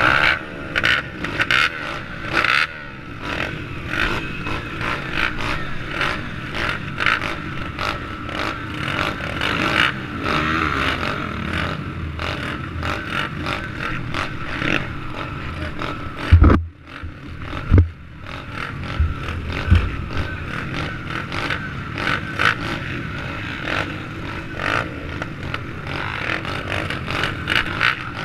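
SSR110 pit bike's small four-stroke single running under throttle, with constant clattering and rattling. A few heavy thumps come just past the middle.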